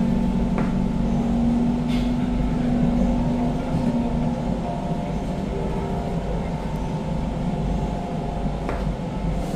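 Inside a running C651 metro train car: a steady rumble of wheels and running gear under several level humming tones from the traction equipment. The lowest hum fades away about four seconds in, while the higher tones carry on.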